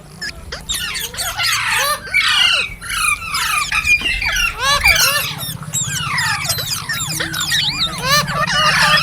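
Green parrot chirping and squawking nonstop: many quick calls that rise and fall in pitch, crowding over one another, over a steady low hum.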